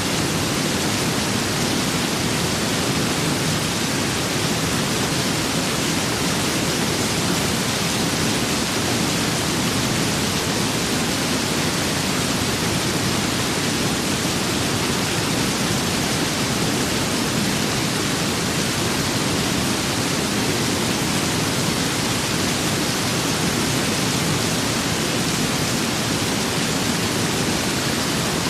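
Steady rain-and-wind ambience: a loud, even rushing hiss with no separate drops, gusts or thunder.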